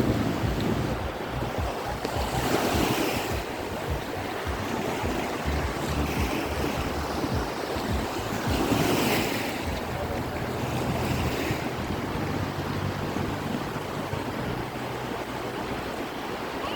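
Sea surf breaking on a beach, with two louder wave crashes about a third of the way in and just past halfway, and wind buffeting the microphone. A faint steady low hum sits under the surf in the second half.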